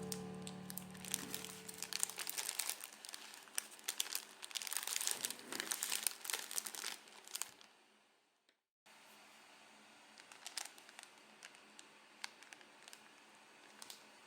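Background music fades out as dense, irregular crackling takes over. The crackling dies away about halfway through, and after a brief silence fainter, scattered crackles follow.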